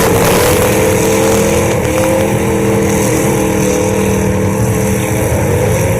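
Demolition derby cars' engines running loud and steady in the arena, several engine tones held with slight rises and falls.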